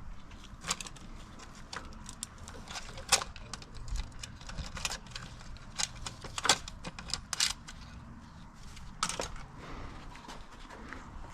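Hand tools and small metal engine parts clicking and clinking at irregular intervals during an engine teardown, over a faint steady low hum.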